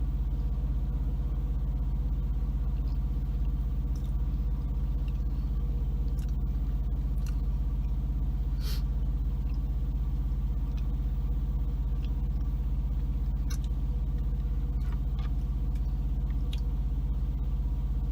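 Semi truck's diesel engine idling steadily, a low even hum heard from inside the cab, with a few faint clicks.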